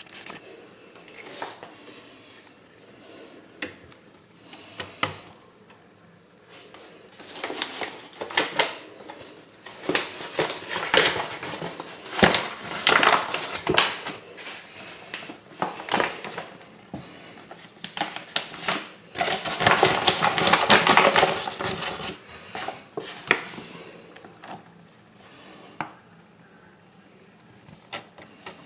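Clattering and knocking of kitchen utensils and containers being handled, in irregular clusters of clicks that are busiest through the middle of the stretch.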